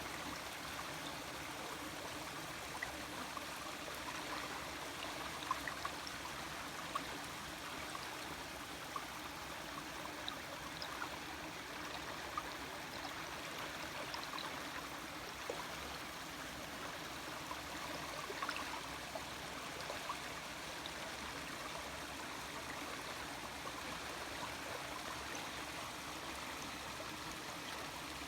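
Small stream of water flowing steadily over rocks, trickling and gurgling, with scattered small plinks of water.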